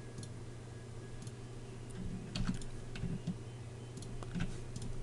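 Scattered clicks and taps of a computer keyboard and mouse, about ten spread irregularly, over a steady low electrical hum.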